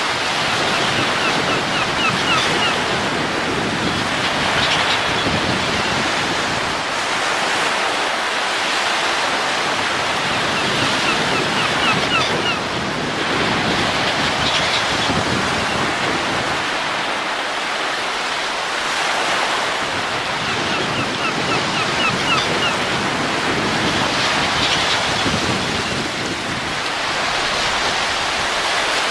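Wind rushing steadily, swelling and easing in slow gusts about every ten seconds.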